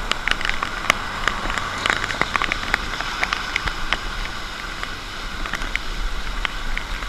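Steady rain falling, with many irregular sharp drop ticks close by.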